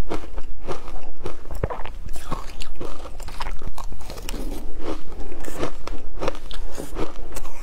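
Shaved ice being bitten and chewed close to the microphone: repeated irregular crunches, several a second.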